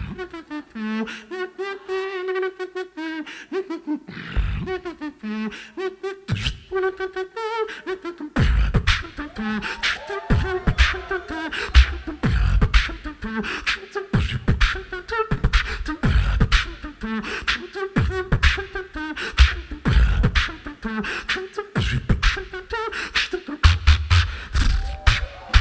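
Live beatboxing: a hummed, wavering vocal melody with sparse mouth-percussion hits, then, about eight seconds in, a dense beat of kick and snare sounds with deep bass.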